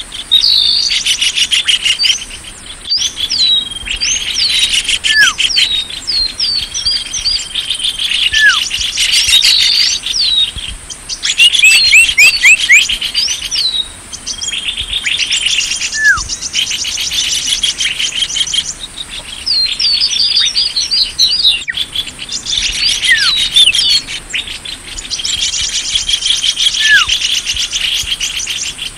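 Small songbirds calling, a bird-lure (pikat) recording: rapid high chirps and trills in bursts, with a short falling whistle every few seconds, over a thin steady high whine.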